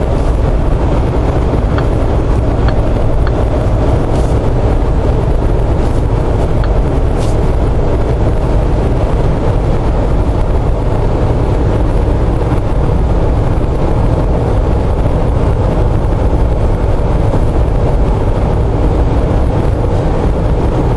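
Steady in-cabin drone of a Jeep Wrangler JK with a Chevy LS V8 swap cruising at about 65 mph on cruise control, with engine, tyre and wind noise blended into an even low rumble.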